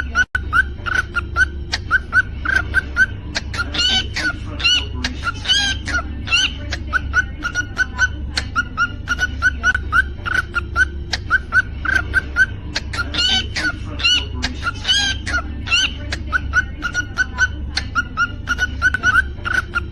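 Cockatiel chirping quickly and repeatedly, broken a few times by louder, rising whistled song notes, over a steady low hum.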